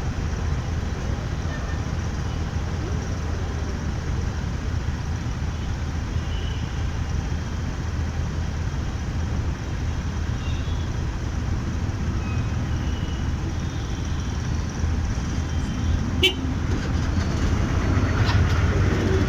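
Steady low rumble of riding a motorbike through city traffic, with scattered vehicle horns honking around it. A single sharp click comes near the end.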